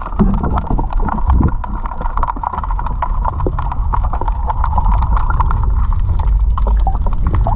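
Wind rumbling on the microphone while kayaking, with water splashing and many small irregular knocks against the kayak.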